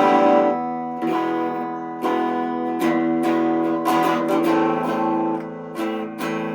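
Chords strummed on a Squier Affinity Stratocaster electric guitar freshly strung with 9–42 gauge strings, a new strum about once a second, each chord ringing on into the next.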